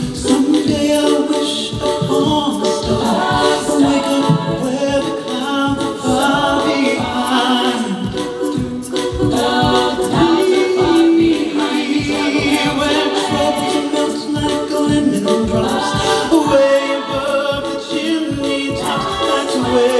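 An a cappella vocal group singing in harmony, with a steady low rhythmic beat under the voices.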